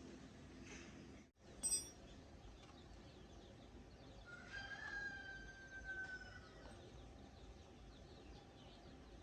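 A rooster crowing once, faintly, about four seconds in: a single long, slightly falling call. A short high chirp comes near the start, over a faint steady background hiss.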